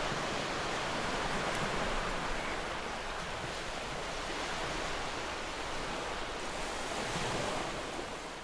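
Sea surf washing on a beach: a steady wash of breaking waves that swells gently and fades out near the end.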